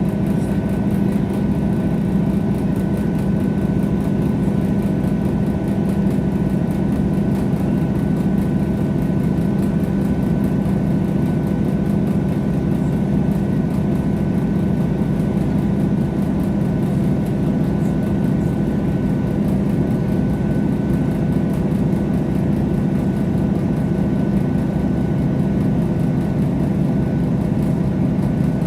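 A passenger train running, heard from inside the carriage: a steady low drone of engine and running gear that stays even throughout.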